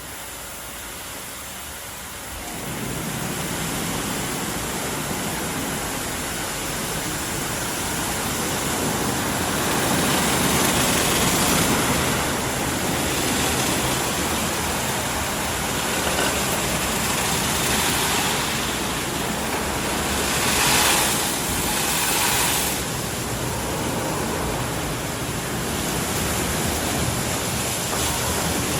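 WashTec SoftCare Pro Classic rollover car wash spraying water over a car, a steady rushing hiss. It gets louder about two and a half seconds in and swells a few times, most sharply about three quarters of the way through.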